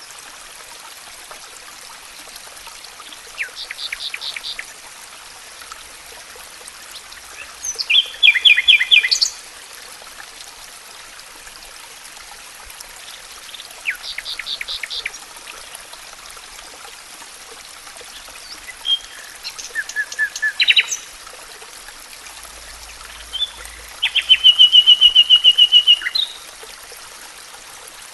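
Songbirds singing in short phrases of quick repeated notes every few seconds, the loudest about 8 s in and a long even trill near the end, over a steady background hiss.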